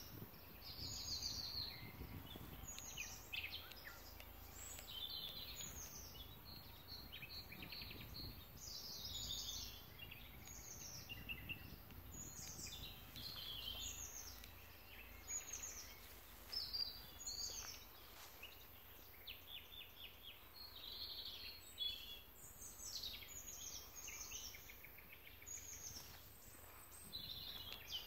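Several songbirds singing: many short falling whistles and quick chirping trills, overlapping one another.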